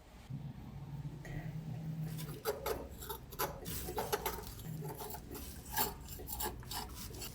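Hand work on a small die-cast metal model: irregular short scrapes and clicks of a tool against metal, with a low hum in the first couple of seconds.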